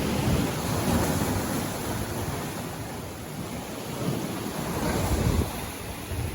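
Sea waves breaking and washing up on a beach, with a low rumble and wind buffeting the microphone. The surf swells about a second in and again about four to five seconds in.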